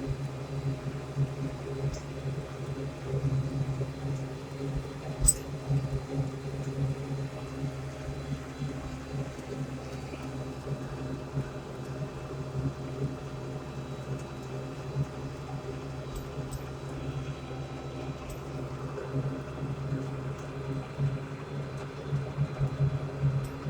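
Tractor engine running at a steady speed under way, a constant low drone, with one sharp click about five seconds in.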